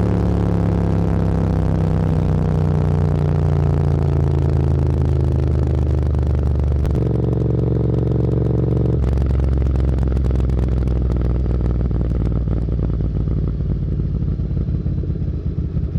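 Motorcycle engine heard from the rider's seat, slowing down with its pitch falling gradually. There are two sudden pitch steps about seven and nine seconds in, then it runs lower and a little quieter near the end.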